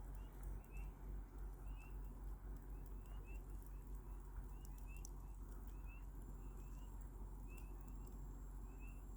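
Campfire burning with a few sharp crackling pops, under a steady series of short high chirps repeating about once or twice a second from a small animal nearby.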